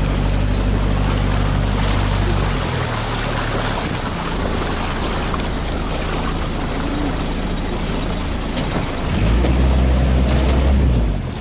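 Boat engine running, its note changing about three seconds in and growing louder and deeper for a couple of seconds near the end, over a steady hiss.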